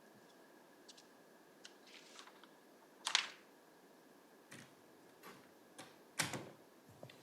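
Scattered sharp clicks and knocks in a quiet room, with two louder knocks about three and six seconds in.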